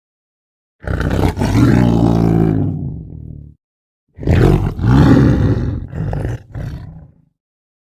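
Tiger roaring twice. The first roar lasts nearly three seconds and fades out. The second is about as long and breaks into a few shorter growls near the end.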